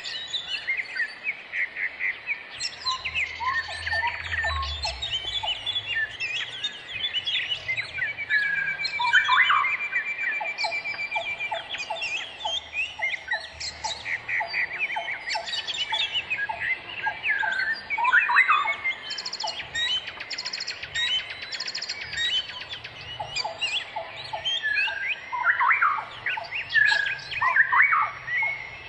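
Several wild birds calling and singing at once: a busy mix of chirps, whistled notes, trills and rapid runs of repeated notes, overlapping throughout.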